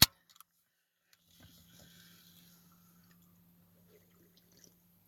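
A can of Sprite: a sharp click right at the start, then a faint fizzing hiss for a second or two, over a faint low steady hum.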